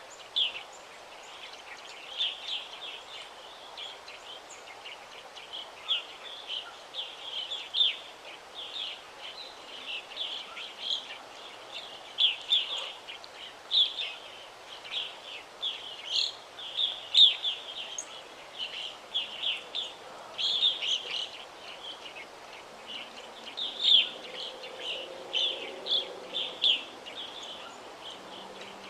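Several small birds singing and chirping in a forest: quick high chirps and trills, one over another, over a steady background hiss.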